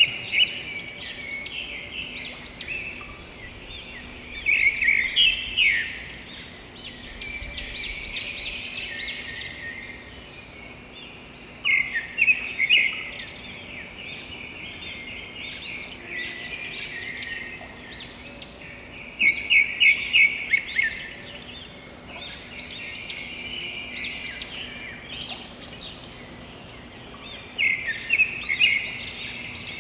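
Wild birds singing: dense chirps and whistles, with a loud, fast trilled phrase returning every seven or eight seconds, over a faint steady hum.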